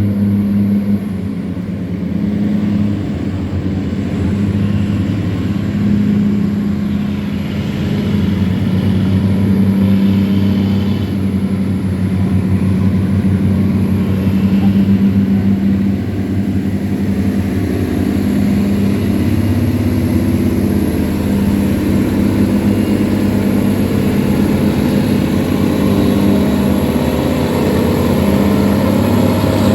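Tugboat's diesel engine running steadily under load while towing a barge: a low, even drone with a fine, rapid pulse.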